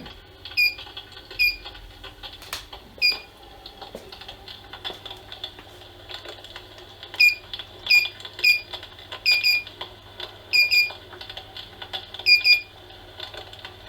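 Electric steam-effect fireplace insert giving short high electronic beeps, often in quick pairs, as its settings are stepped up and down. Faint irregular crackling clicks from its simulated log-crackle sound play underneath.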